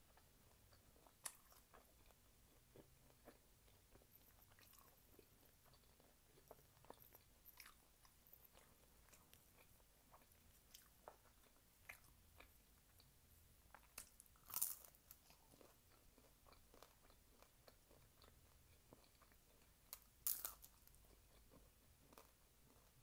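Faint close-mic chewing of a crisp fried taquito, with scattered small crunches and mouth clicks and two louder crunchy bites, one past the middle and one near the end.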